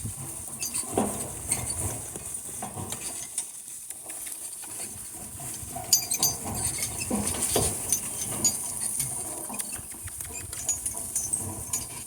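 Donkey team's harness hardware and chains clinking and jingling as the harnessed donkeys walk, with scattered knocks of hooves and tack.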